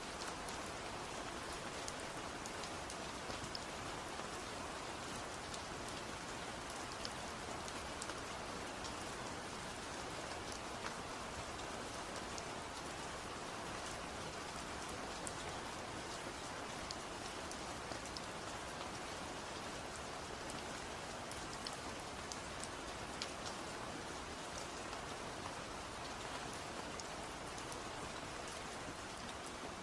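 Steady rain falling, an even hiss of rainfall with many small scattered drop ticks.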